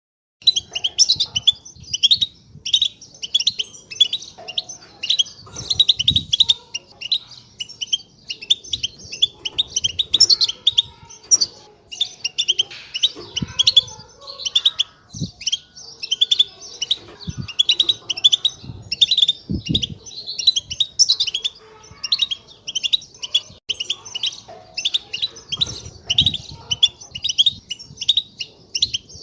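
A group of European goldfinches chattering together, a dense run of quick overlapping twittering chirps, with a few soft low thuds under it.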